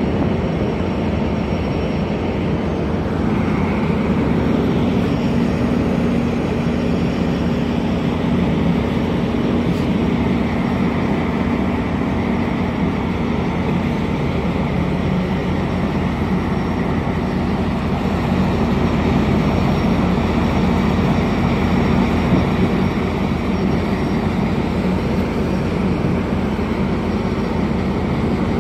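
Sounder commuter train rolling slowly past, its diesel locomotive running with a steady hum.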